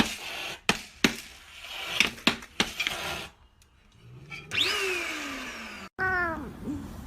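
Several sharp knocks and scuffles, then a cat yowling twice with falling pitch in the second half.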